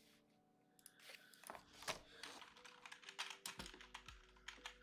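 Faint, irregular clicking of typing on a computer keyboard, with faint steady tones behind it from about halfway through.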